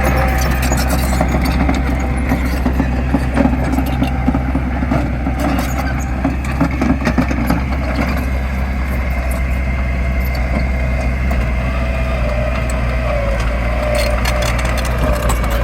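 Heavy diesel earthmoving machinery running steadily, with a constant low engine drone and frequent clanks and rattles. A wavering whine comes in over the second half.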